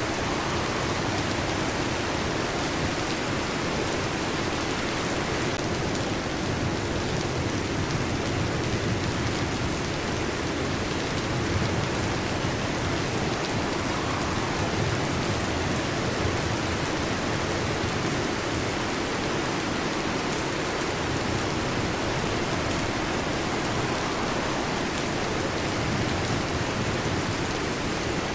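Heavy rain falling steadily on a metal roof.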